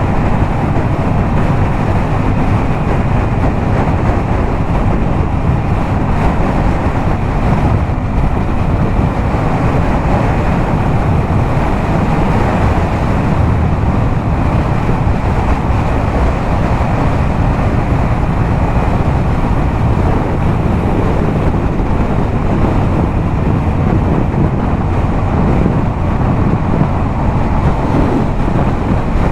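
Yamaha MT-07's parallel-twin engine, fitted with a LeoVince exhaust, running steadily at highway cruising speed, mixed with heavy wind rush on the microphone.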